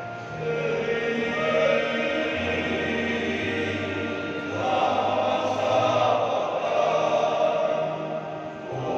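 A choir singing in several parts, with long held notes. It swells louder about halfway through.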